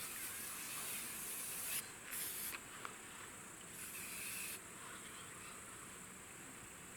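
Aerosol insect repellent sprayed in three hissing bursts: a long one of about two seconds, then a short one, then another a little later. It is being sprayed against biting insects.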